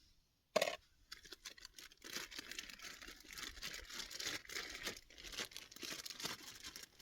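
A sharp knock about half a second in, then a long stretch of crinkling and rustling, like plastic food wrapping being handled and torn open.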